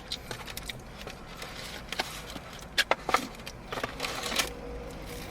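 Eating sounds: a few short crackles and clicks of biting, chewing and handling food, over a faint low steady hum.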